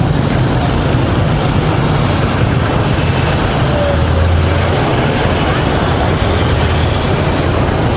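Steady road traffic noise with engines running close by, rumbling continuously.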